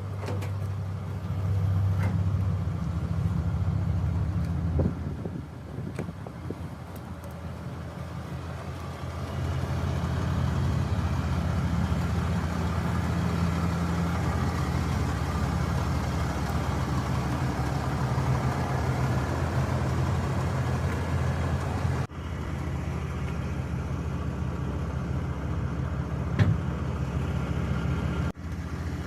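2021 Ram 3500's 6.7-litre Cummins inline-six turbo diesel running steadily with a low hum, growing louder and softer a few times and breaking off for an instant twice.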